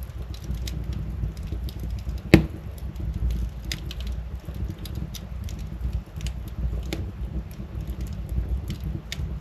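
Wood fire burning in a fireplace: a steady low rumble of flames with scattered crackles, and one loud pop of burning wood about two and a half seconds in.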